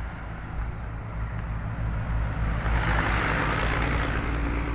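A motor vehicle running steadily, with a swell of louder noise that peaks about three seconds in as it passes.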